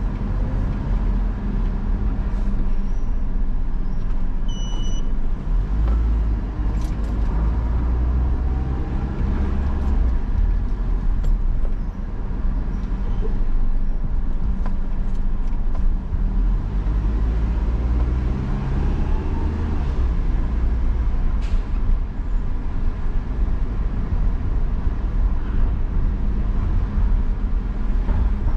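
Car being driven: a steady low engine and road rumble, with the engine note rising twice as the car speeds up. A short beep sounds about four and a half seconds in.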